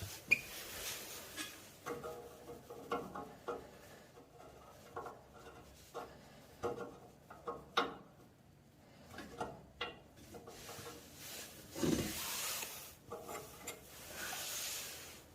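Hand reassembly of a heating-line strainer after cleaning: scattered metal clicks and knocks as the filter screen and cap are handled and fitted, with stretches of rubbing and scraping, the longest about twelve seconds in.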